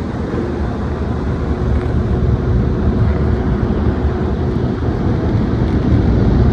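Automatic car wash machinery running: a steady, heavy rumbling noise with a faint steady hum in it, growing slowly louder.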